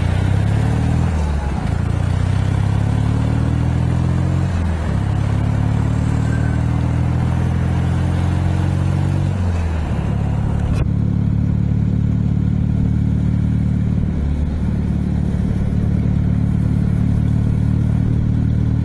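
Ural motorcycle's flat-twin engine, fitted with a single PZ30 carburettor, pulling up through the gears: the engine note climbs and drops at each shift, three times in the first ten seconds, then holds steady at cruising speed.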